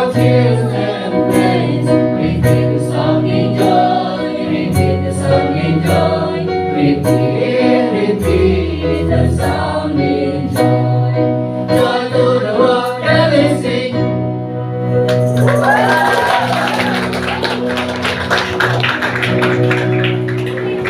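Mixed choir of teachers and school staff singing a Christmas song with instrumental accompaniment. About fifteen seconds in, a brighter, noisier wash joins the music.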